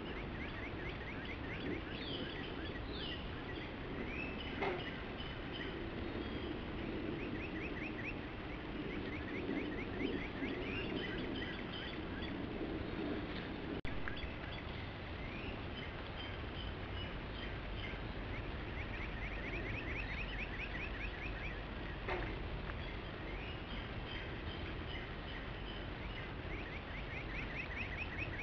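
Birds calling at dawn: repeated short trills of quick notes and scattered chirps, over a steady hiss, with a brief click about halfway through.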